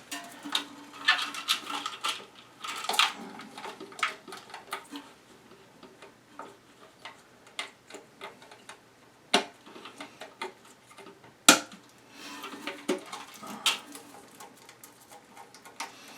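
Small plastic clicks, taps and knocks of a new toilet flapper being fitted into the tank, with a couple of sharper knocks partway through.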